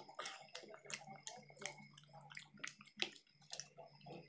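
Wet chewing and lip-smacking of people eating noodles with their hands: a string of soft, irregular clicks and smacks over a faint steady hum.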